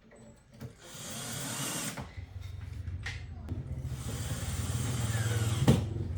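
A small electric motor running: a steady low hum with hiss that starts about two seconds in, after a second-long hiss, with a single knock near the end.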